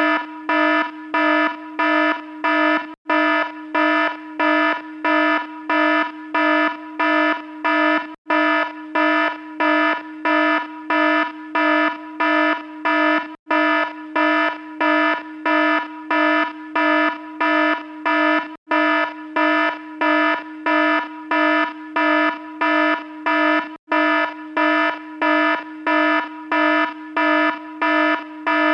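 Electronic alarm beeping at one steady, buzzy pitch, about two beeps a second, with a brief break every five seconds or so.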